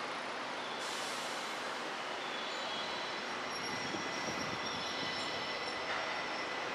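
JR West 283 series limited express train pulling out of the station, its wheels running steadily over the rails with a thin high wheel squeal.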